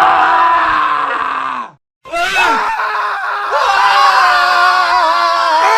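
Men screaming in a montage of screams: one long scream cuts off abruptly a little under two seconds in, and after a brief silence another long, sustained scream begins and runs on.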